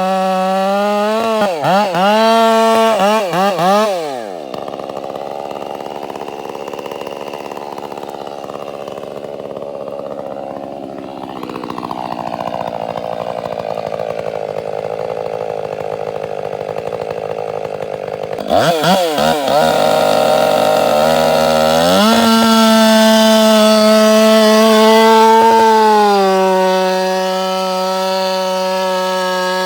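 Two-stroke chainsaw running with the throttle blipped, then its pitch drops and the sound turns rougher for about fifteen seconds, as when the chain is pulled down in a cut. Near the end it revs again and holds a steady high pitch.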